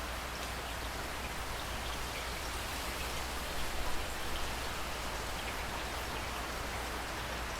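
Steady heavy rain falling, an even wash of noise with individual drops ticking through it and a few slightly louder splashes a little past the middle.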